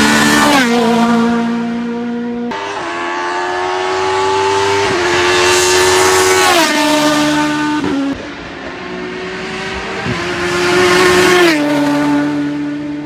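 Racing car engine accelerating hard uphill through the gears. Its pitch climbs, then drops sharply at each upshift, about three times. The sound cuts off abruptly and restarts twice, where separate clips are joined.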